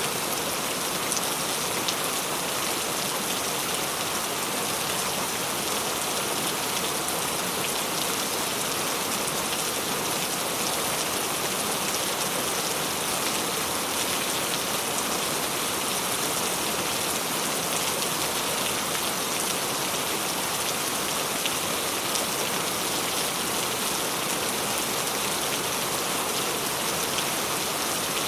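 Tropical rain falling steadily, a dense, even patter of raindrops with no letting up.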